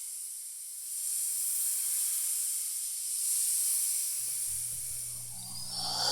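A steady hiss that swells and fades in slow waves. About four seconds in, a low steady hum joins it.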